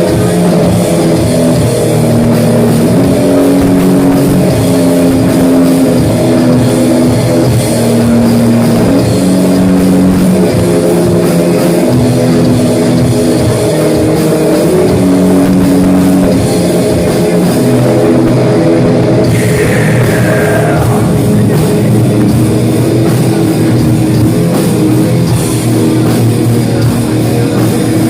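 Heavy metal played by a band on electric guitar and drum kit, loud and continuous, with sustained notes and a falling pitch sweep about twenty seconds in.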